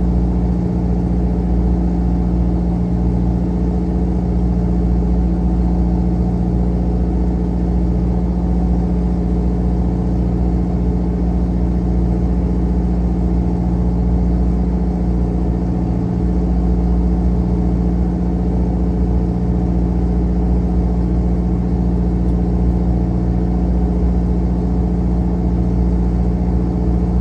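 Bottom-trawl fishing boat's engine running steadily, a low, even drone.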